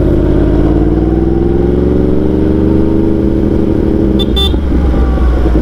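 2018 Yamaha R1's 998 cc crossplane inline-four engine running under way, heard from the rider's position. Its note rises gently and then eases off. Two short high beeps cut in about four seconds in.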